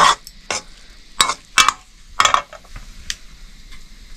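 A metal spoon stirring and scraping in a metal cooking vessel: about five quick, sharp scrapes in the first two and a half seconds, then a few faint ticks.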